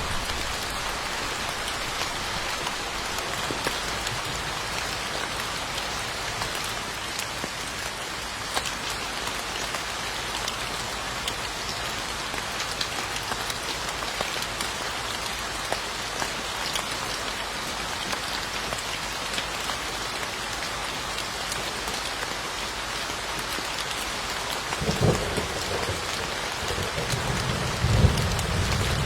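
Steady, dense rainfall with many individual drops pattering. Near the end, two low rumbles of thunder swell up a few seconds apart.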